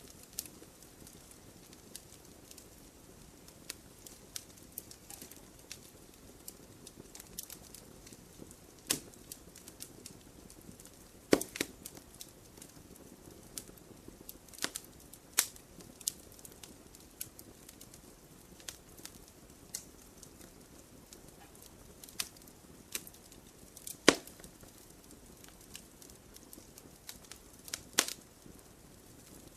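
Wood campfire burning: irregular sharp crackles and pops over a low, steady hiss. A few pops are louder than the rest, one about a third of the way through and the loudest around four-fifths of the way in.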